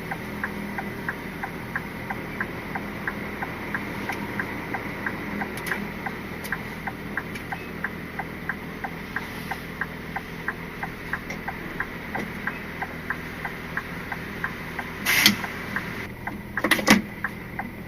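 Inside the cab of a Scania R450 lorry: the diesel engine running steadily under an even ticking of about three clicks a second from the turn indicator. A few loud knocks or rattles break in near the end.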